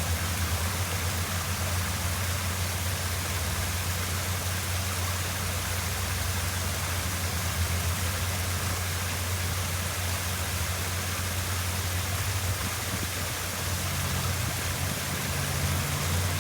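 Waterfall rushing steadily, a constant hiss of falling water over a deep low rumble.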